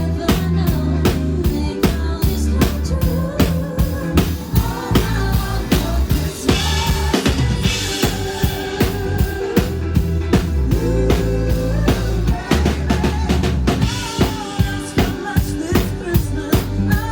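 Live band playing an upbeat song with a steady drum-kit beat over bass and melodic instruments, with no singing.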